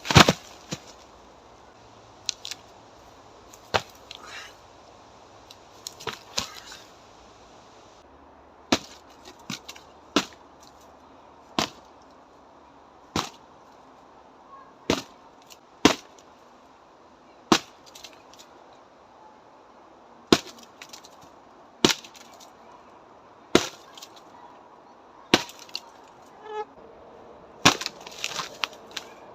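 Repeated karate strikes against a dead tree trunk: a series of sharp, hard knocks, about one every one and a half to two seconds, with a few brief clusters of cracking.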